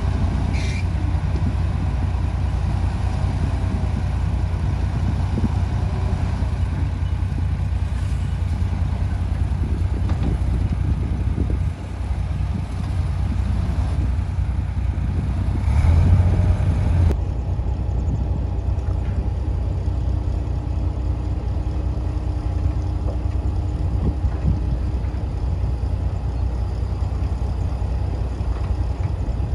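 Heavy diesel earthmoving machinery running steadily with a deep engine sound, with a brief louder surge a little past halfway.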